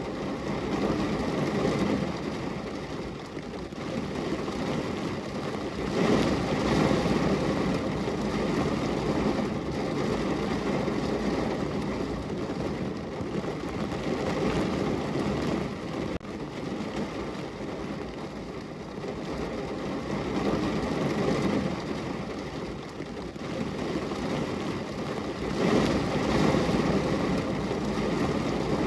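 Rain falling against a window pane, a dense steady patter that swells and eases every several seconds, loudest about six seconds in and again near the end.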